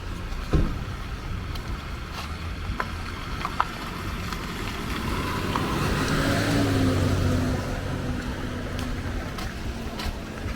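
Outdoor street ambience with a steady low rumble and scattered clicks and knocks; a motor vehicle passes, its engine swelling from about five seconds in and fading after about eight.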